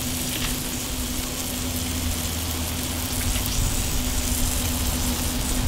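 Burger patties sizzling on a flat-top griddle: a steady, even frying hiss with a low hum underneath.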